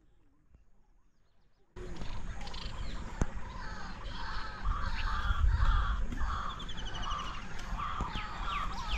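Near silence for about two seconds, then birds calling in a rapid series of repeated harsh calls, about two a second, over a low rumble of wind on the microphone.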